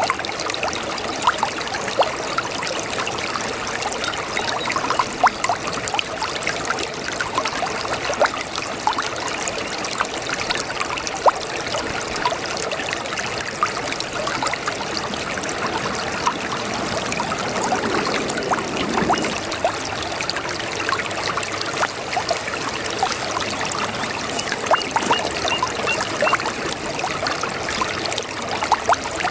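A shallow brook babbling steadily over stones, a constant rush of running water full of small splashes and trickles, with a fuller gurgle briefly about two-thirds of the way through.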